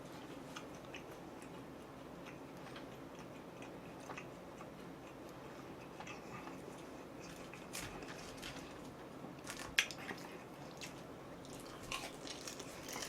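A person chewing food, with faint mouth sounds and scattered small clicks and crunches; one sharper click comes about ten seconds in.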